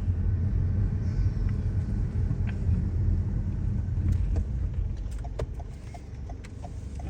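Steady low road and engine rumble heard from inside a moving car, with a run of faint light ticks, about three a second, in the last couple of seconds.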